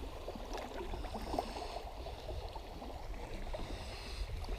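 Water gurgling and lapping around a kayak on a moving creek, many small irregular splashes, over a steady low rumble.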